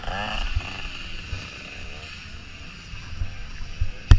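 Motocross dirt bike engines droning steadily, over irregular low buffeting thumps, with a sharp knock near the end.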